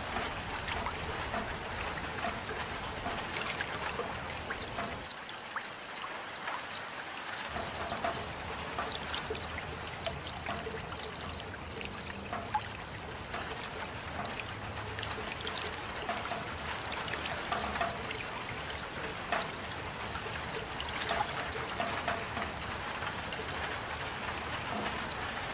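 Steady rain, with many separate drops ticking close by over an even hiss of falling water.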